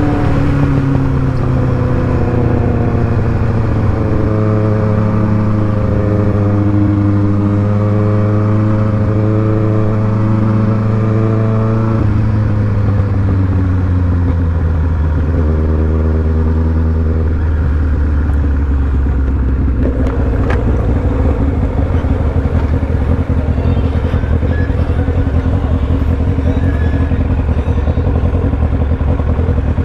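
Sport motorcycle engine running under way, its note holding fairly steady with slow pitch drifts, dropping about twelve seconds in and settling at a lower pitch from about eighteen seconds.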